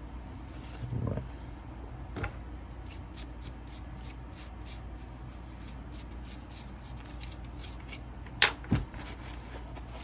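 Workbench handling of a disassembled angle grinder's parts and tools: scattered light knocks and clicks, with two sharp knocks close together near the end, over a steady low hum.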